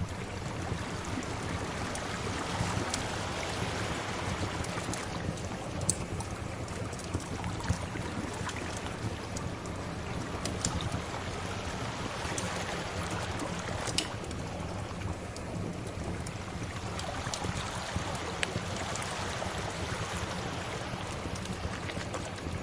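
Sea waves washing in as a steady rush that slowly swells and eases. Sharp crackles and pops from a fire are scattered through it, a few louder pops standing out.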